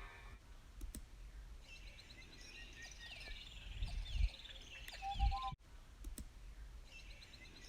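Faint birds chirping in short repeated calls and quick downward-sweeping notes, with a couple of low thumps about four and five seconds in and a few scattered clicks.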